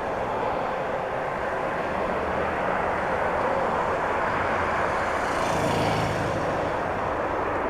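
Jet airliner's engines at takeoff thrust, a steady rushing noise that swells for a moment about two-thirds of the way in, its hiss reaching higher, then eases slightly.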